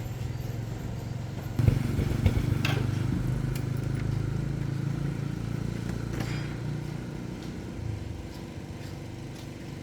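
A motor running steadily with a low hum that gets louder about one and a half seconds in, with two sharp knocks soon after and a few faint clicks.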